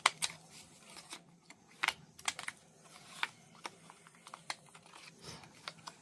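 Irregular light clicks and taps of craft tools and supplies being handled on a table, with a little paper crinkling; the sharpest click comes right at the start.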